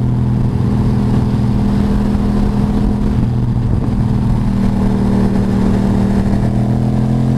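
Motorcycle engine running at a steady cruising speed, with a dense rumble of wind and road noise underneath.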